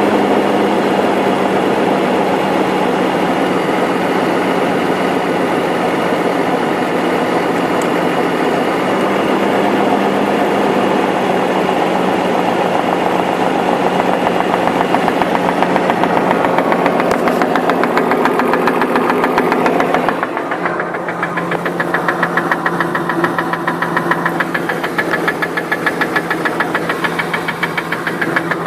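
BMW X5's 3.0-litre M54 straight-six engine running with a rhythmic knock. About twenty seconds in the level drops and the knocking stands out more clearly against the engine's steady hum.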